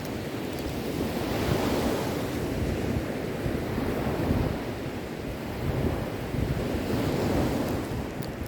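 Sea waves washing onto a shore: a steady rush of surf that swells and eases every few seconds, with wind blowing across the microphone.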